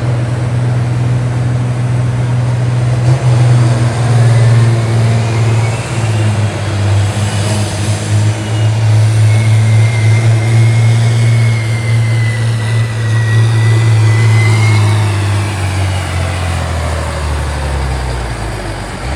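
Pulling tractor's engine running hard and steady under load, with a high whine rising and falling above it. The engine speed drops off over the last few seconds.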